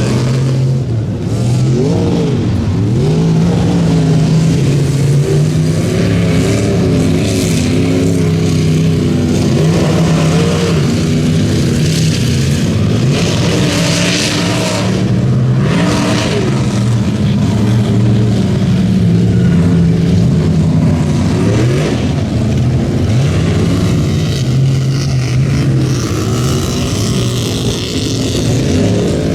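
Mud bog truck engine revving hard, its pitch rising and falling again and again as it runs the pit. There is a loud stretch of hissing noise partway through.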